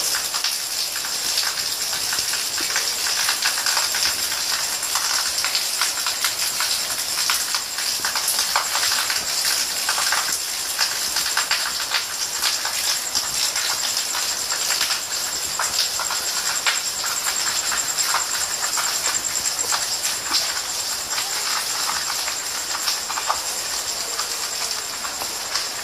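Steady rain falling at night, a dense hiss with many individual drops ticking through it. A steady high-pitched tone runs under it.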